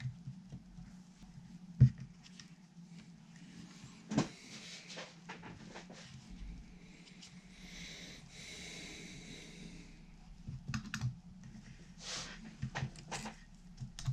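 Small parts and tools handled on a workbench during guitar assembly: scattered clicks and taps, the sharpest about two seconds in, a soft rubbing hiss partway through, and a run of taps near the end, over a steady low hum.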